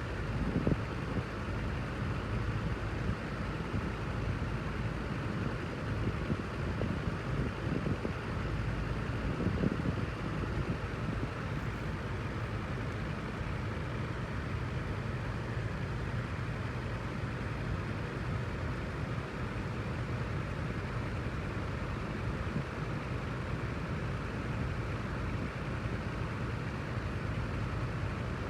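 Wind machine fan running steadily: an even rush of air over a low motor hum, with a few louder buffets in the first second and again around nine seconds in.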